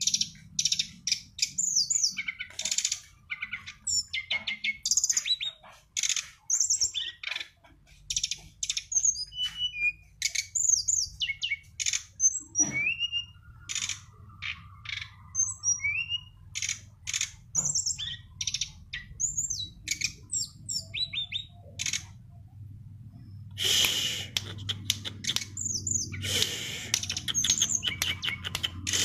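A songbird singing a fast, varied song of sharp high chirps and short whistled glides, denser and louder in a burst near the end.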